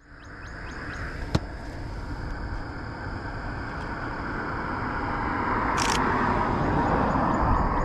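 Truck driving with the windows down: a steady rumble of road and wind noise that grows louder. There is a sharp click about a second in, a brief high hiss about six seconds in, and faint repeated high chirps.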